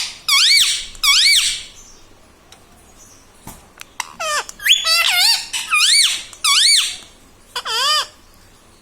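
Indian ringneck parrot giving a string of about seven short, high, squeaky calls, each dipping and then rising in pitch. The calls come in groups with a pause of about two seconds in the middle.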